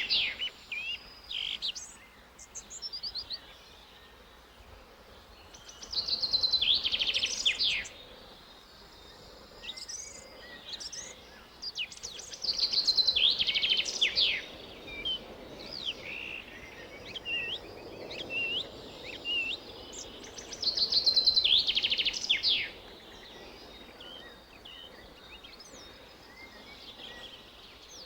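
A songbird singing: loud phrases of about two seconds of rapid, high notes, repeated three times several seconds apart, with softer chirps between them.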